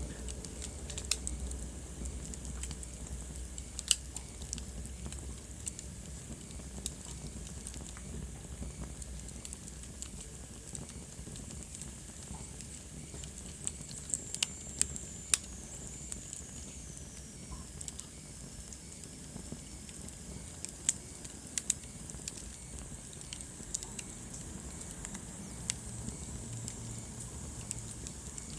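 Wood fire burning in a fireplace: a steady soft hiss with irregular sharp crackles and pops from the logs. A faint high whistle falls in pitch about halfway through.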